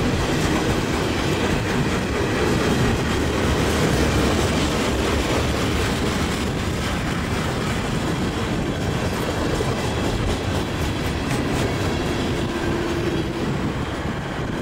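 Freight cars of a passing train rolling by: a steady rumble and clatter of steel wheels on the rails, easing slightly as the end of the train goes past, with a short faint squeal near the end.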